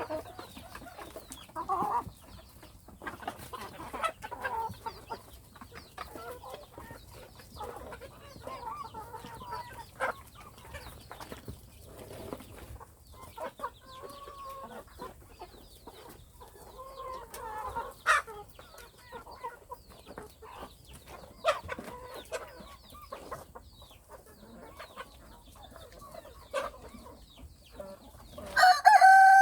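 Chickens clucking continually, with a few sharp taps among the calls. Near the end a rooster starts a loud crow.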